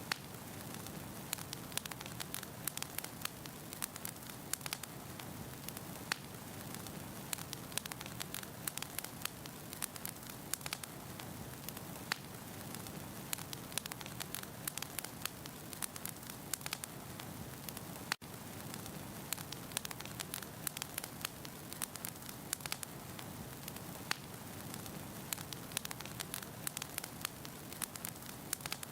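Firewood burning in a fireplace: a steady hiss with frequent sharp, irregular crackles and pops. There is one very brief dropout about two-thirds of the way through.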